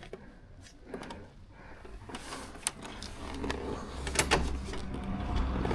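Scattered clicks and knocks from a motorcycle being wheeled along by hand, with a low steady rumble that comes in about halfway through.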